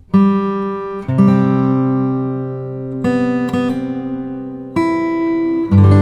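Acoustic guitar music: slow chords strummed about every one to two seconds, each left to ring and fade.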